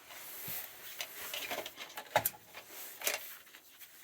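Small objects being handled: scattered light clicks and rustling, with a sharper click about two seconds in and another about three seconds in.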